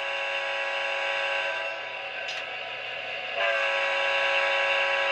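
Recorded diesel locomotive horn from the QSI sound decoder in an Atlas HO-scale GP39-2 model, played through the model's speaker: one long, steady multi-note chord that gets louder about three and a half seconds in.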